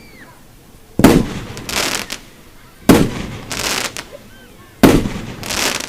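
Aerial fireworks shells bursting: three sharp bangs about two seconds apart, each followed about half a second later by a longer hissing burst.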